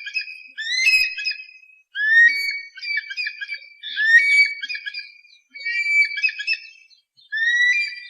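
Hawk calls repeated in a steady string, about one call a second, each a whistled note that rises quickly and then holds, with brief gaps between calls. A single click sounds about a second in.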